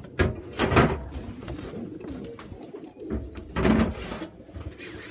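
Domestic pigeons cooing steadily in a loft, with a couple of short high squeaks. Two loud rustling noises stand out, about a second in and again near four seconds.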